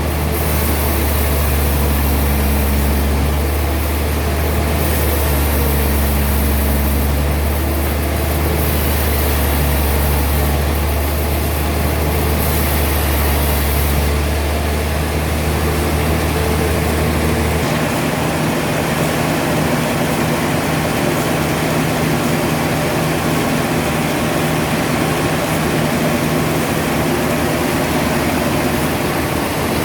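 Sawmill machinery running steadily, a loud engine-like drone. A deep low hum cuts off about two-thirds of the way through while the rest of the machine noise carries on.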